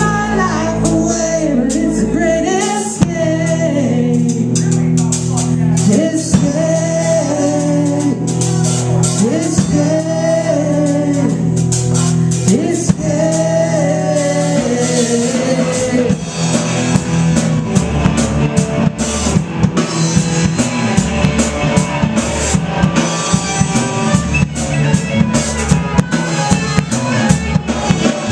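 A band with female lead vocal, guitar, bass guitar and drum kit plays a song. The singing carries over the band for about the first half, then stops, leaving the guitars and drums playing on with busier drumming.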